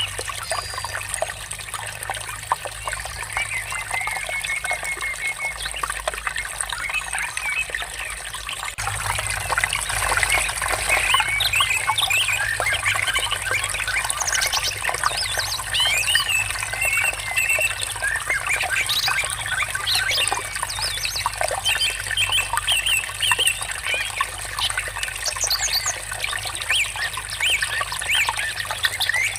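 Water trickling and babbling steadily, with several birds chirping and singing over it. The water grows slightly louder about nine seconds in.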